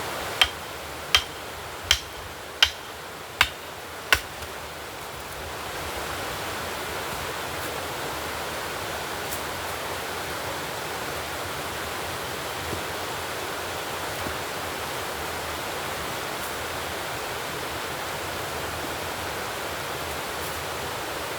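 Steady rushing noise like running water, with six sharp knocks about three-quarters of a second apart in the first four seconds.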